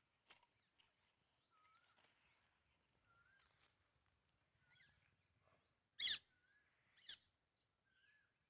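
A bird calling faintly outdoors: a short whistled note that rises and then levels off, repeated about every second and a half. About six seconds in comes one louder, wavering high call, with a weaker one a second later.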